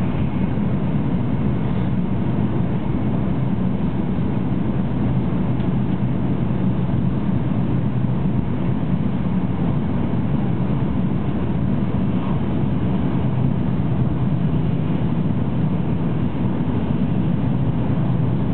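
Shinkansen bullet train running at speed, heard inside the passenger cabin as a steady low rumble that does not change.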